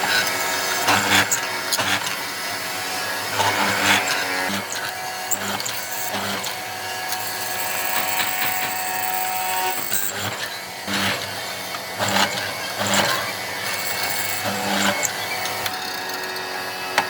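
Woodworking power tools: a steady machine hum with several short bursts of louder tool noise.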